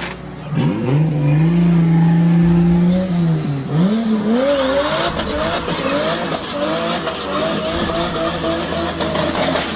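Car engine revving: it climbs and holds a steady pitch, drops, then revs up and down in a string of quick rises. A rushing hiss builds from about four seconds in, and a thin high whistle rises near the end.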